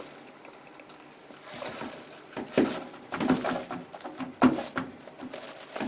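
Laundry detergent being poured into a washing machine's dispenser drawer. After a quiet start, irregular rustling and clattering begins about a second and a half in.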